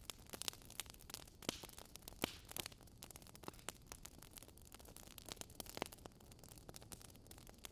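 Faint, irregular crackling: sharp scattered clicks over a low steady hiss.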